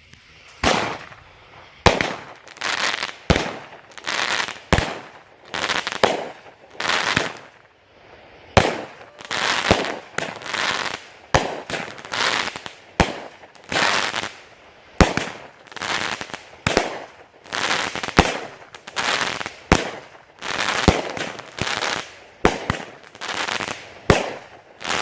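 A Boomer Bada Bing 200-gram consumer firework cake firing its tubes in sequence, about one shot a second. Each shot is a sharp launch thump followed by a noisy burst lasting about half a second.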